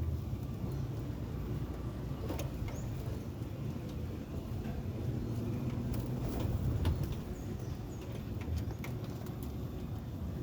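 Domestic pigeons cooing low and continuously, with scattered short clicks and a faint high chirp from a small bird now and then.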